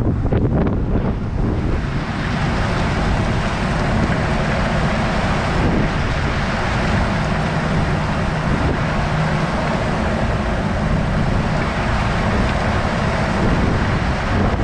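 Truck and trailer driving at road speed: a steady rumble of engine and tyres, with wind blowing across the microphone.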